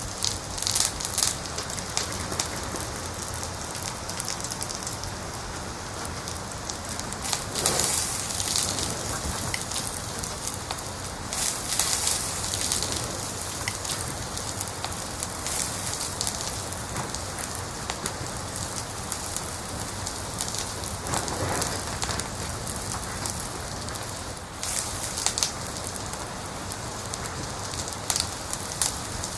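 Wood fire crackling in a fireplace: a steady hiss full of small pops and snaps, with a few louder bursts of crackling.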